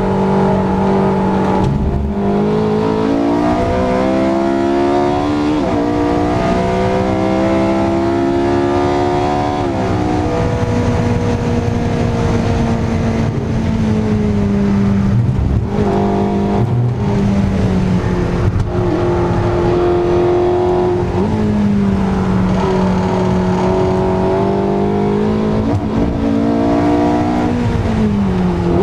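Porsche 918 Spyder's 4.6-litre V8 running hard around a track. Its pitch climbs under acceleration and drops sharply at each gear change, several times over.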